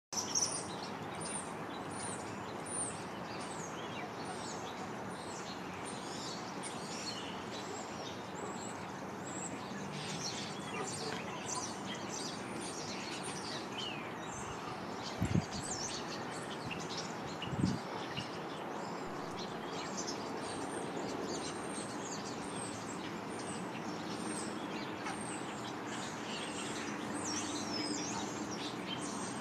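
Small birds chirping, short high calls repeating over a steady background hiss, with two brief low thumps about halfway through.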